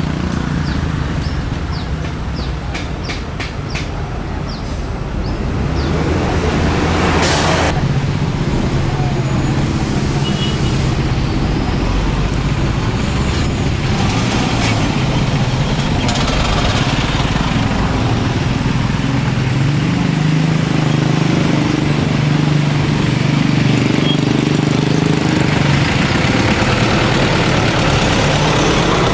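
Heavy truck engine running close by, with a short air-brake hiss about seven seconds in.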